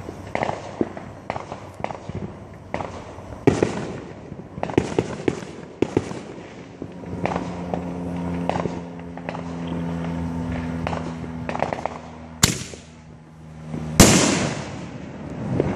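Fireworks going off: an irregular string of sharp pops and bangs, then two much louder bangs near the end, the last the loudest, with a sharp crack and a ringing tail.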